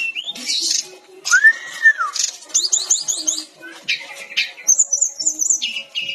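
A Sikatan Rimba Dada Coklat jungle flycatcher (Cyornis) is singing a fast, varied song of high whistles, quick rising note series and trills. About a second and a half in, one lower arched whistle rises and then falls.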